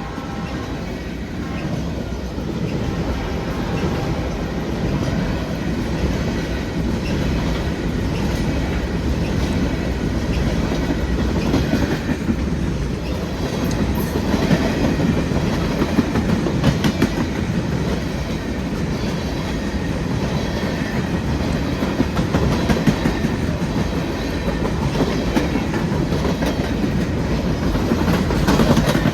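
Freight cars of a Norfolk Southern train rolling steadily past, with a continuous rumble and the clickety-clack of wheels over rail joints. The train is one the railfan takes for a ballast train of open hopper cars.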